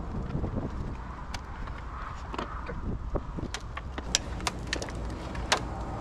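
Wind rumbling on the microphone, with scattered sharp clicks and taps from hand work on the car.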